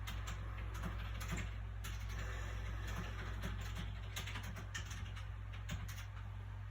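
Soft paper sounds from handling a book: light, irregular crinkles and taps of fingers on the pages, with a brief soft rustle about two seconds in, over a steady low background hum.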